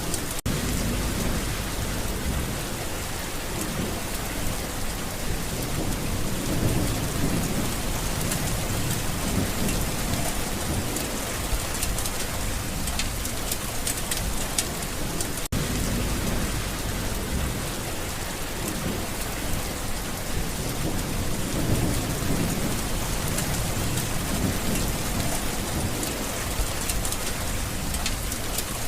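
Steady heavy rain falling, with low rolls of thunder rumbling up twice.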